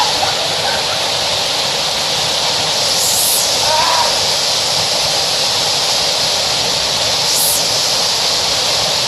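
Steady rushing of a waterfall, with two brief higher hisses about three seconds in and again near the end.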